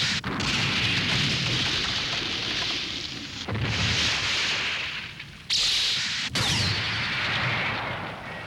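Thunderstorm sound effect: a loud rushing of rain and wind with low rumbling thunder, surging in suddenly again about three and a half and five and a half seconds in, then dying away near the end.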